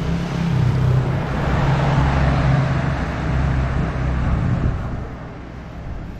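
A motor vehicle passing close by on the street: a low engine hum with a rush of tyre and engine noise that swells over the first two seconds and fades away near the end.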